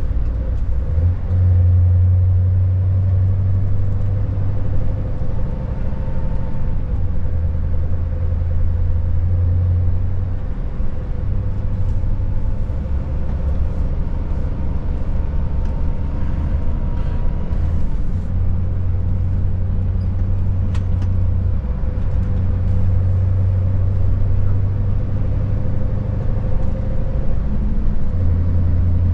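Scania S580 truck's V8 diesel engine running steadily under way, a deep drone whose low rumble swells and eases every few seconds as the load changes.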